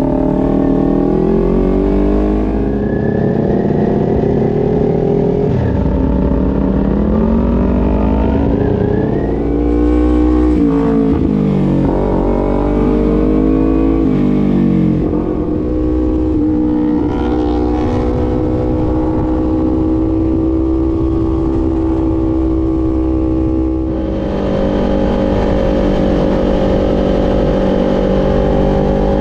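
Kawasaki Ninja sport bike's parallel-twin engine under way on the road. Its note climbs and drops several times as the rider works the throttle and gears, then holds fairly steady.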